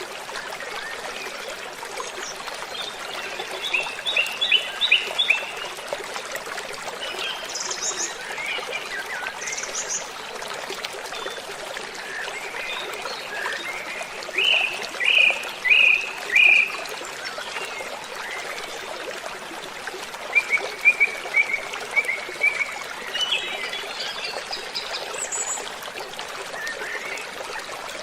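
Steady rush of falling water from a waterfall, with birds singing over it: runs of short, repeated chirps come and go, the loudest being a series of four notes around the middle and a quick string of chirps about three-quarters through.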